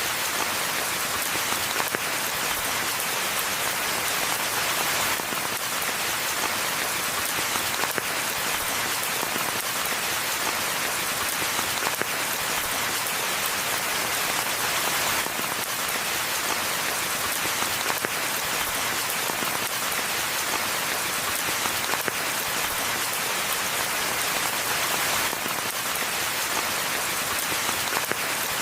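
Steady rain falling in a forest, a dense even hiss of drops with many small drop ticks on the surfaces.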